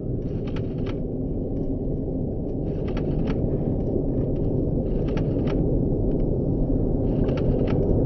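Low rumble of a jet airliner's engines, growing steadily louder, with faint brief crackles over it.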